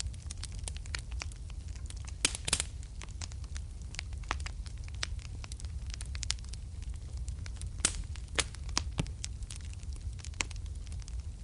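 Wood fire burning in a fireplace, crackling with irregular sharp pops and snaps over a low steady rumble of the flames. A quick cluster of louder pops comes about two seconds in, and another sharp pop near eight seconds.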